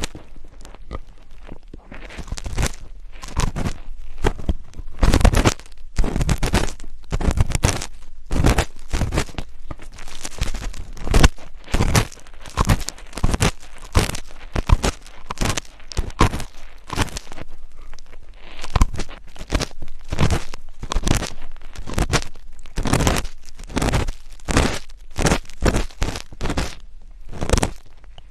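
ASMR scratching and rubbing strokes close against the microphone, repeating unevenly about one or two times a second.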